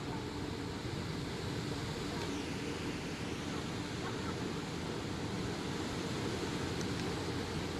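Storm wind blowing steadily with light rain, an even rushing noise heaviest in the low range, with no thunderclap.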